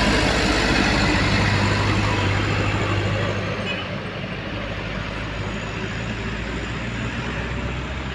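Old truck's engine pulling up a steep climb, a steady low drone that grows a little quieter after about three seconds.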